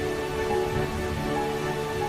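Soft ambient music with long held notes over a steady rush of falling water from a waterfall.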